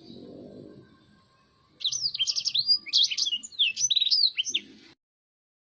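Black-throated canary singing a fast, loud warble of steeply sweeping high notes. The song starts about two seconds in and cuts off abruptly near the end, with only a faint low rumble before it.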